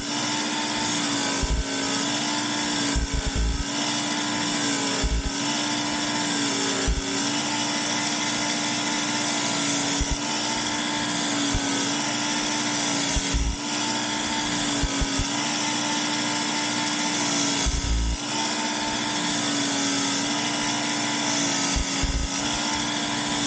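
Work Sharp powered belt sharpener running with a medium-coarse belt, its small electric motor making a steady whir. The pitch dips briefly every second or two as a steel broadhead is drawn across the belt, six passes per side.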